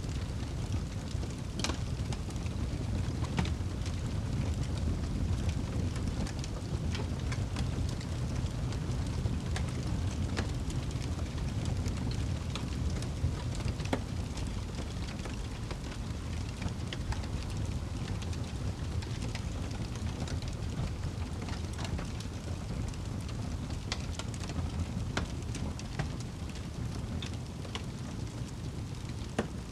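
Wood fire crackling in a fireplace: a steady low rumble of burning with scattered sharp pops and snaps, a few of them louder than the rest.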